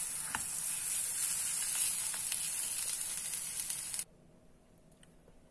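Ground moong dal filling sizzling in a non-stick pan as it is stirred with a silicone spatula, its moisture cooking off; a steady hiss with a few faint scrapes. It cuts off abruptly about four seconds in.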